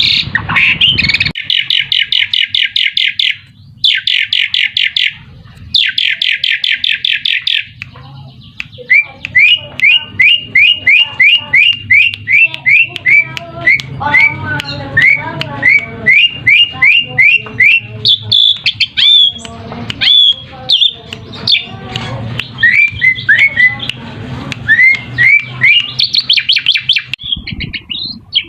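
Asian pied starling (jalak suren) singing. It gives two fast rattling trills, then a long run of short rising whistles about two a second, mixed with varied chattering notes.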